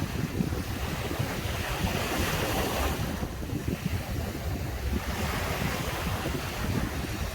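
Sea surf washing onto a beach, swelling about two seconds in and then easing, with wind buffeting the microphone.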